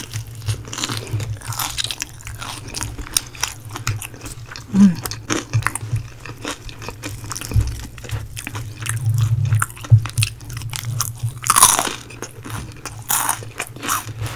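Crunching bites and chewing of crispy spicy fried chicken, close to the microphone, with many short sharp crunches throughout. A low steady hum runs underneath.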